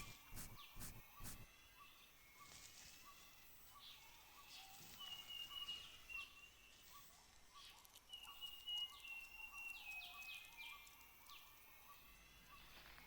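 Borneo rainforest ambience, faint: birds and insects calling, with a soft call repeated at an even pace throughout. Twice, a high drawn-out whistle steps down in pitch. There are scattered clicks, and a rustle of leaves near the start.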